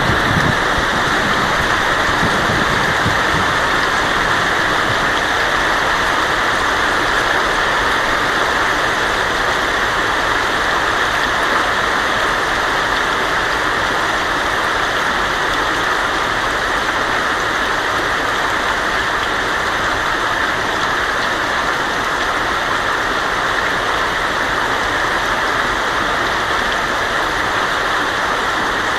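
Heavy rain falling steadily on a tin roof, an even unbroken hiss of water.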